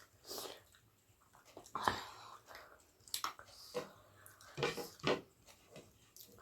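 Close-up eating of bony pork: wet chewing and smacking, with sharp crunchy bites at uneven intervals.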